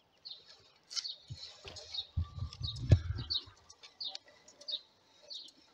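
Short high bird chirps repeating about twice a second. About three seconds in there is a brief low rumble with a single sharp knock.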